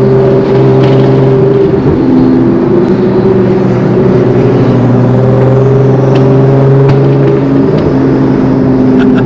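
Car engine running steadily with a low, even drone. The pitch shifts slightly about two seconds in and again near the end.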